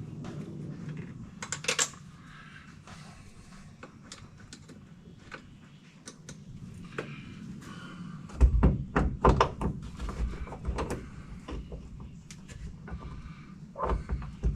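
Interior trim pieces being handled and fitted into a truck cab: scattered clicks, then from about eight seconds in a quick run of heavier knocks and rattles.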